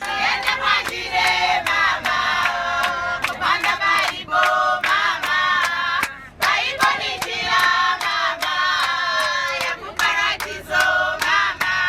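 A women's choir singing together, with several voices in full song and steady, regular handclaps keeping the beat.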